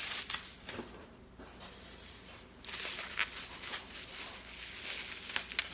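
Bubble wrap rustling and crinkling as it is handled and unwrapped, with a few small clicks; it gets louder about halfway through.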